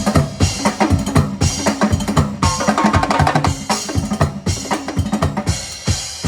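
Live percussion band playing a fast, busy drum groove on drums made from recycled, used materials, with a low pitched part repeating under the strikes.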